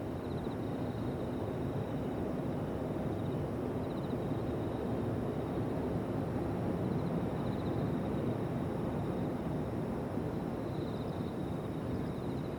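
Distant jet airliner's steady rumble, swelling slightly toward the middle. Insects trill high in the background in short repeated bursts.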